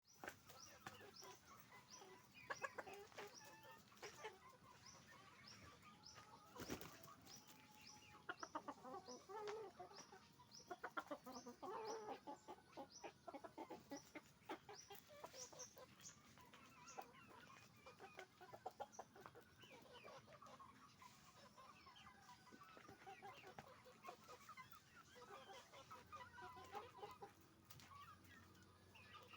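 A flock of chickens, hens and roosters, clucking and calling over one another in a dense run of short, repeated calls, with a single brief knock about seven seconds in.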